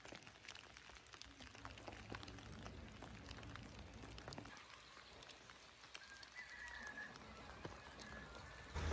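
Light rain falling, faint, with many scattered drops tapping. A brief high tone sounds about six seconds in.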